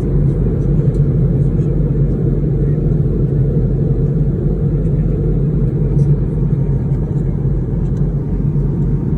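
Steady low rumble of an airliner cabin in flight, engine and air noise with a few faint ticks.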